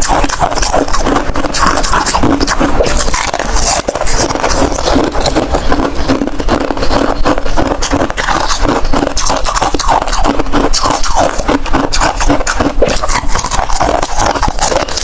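Close-miked crunching of hard freezer ice being chewed, a dense, continuous run of sharp cracks and crackles.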